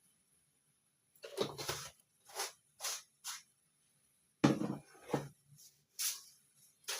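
Kitchen handling sounds as spices go into a tea pot: a scrape, a few short light rustles, then a sharp clunk about four and a half seconds in and one more knock soon after.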